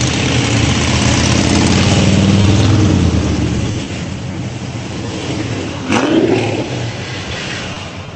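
Sports-car engines in a slow parade passing close by: one loud engine running as it goes past over the first few seconds, then quieter engine noise with a sudden loud burst about six seconds in.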